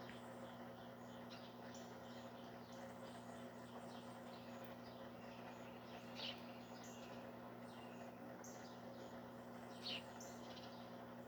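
Faint, scattered bird chirps, two of them a little louder about six and ten seconds in, over a steady low hum.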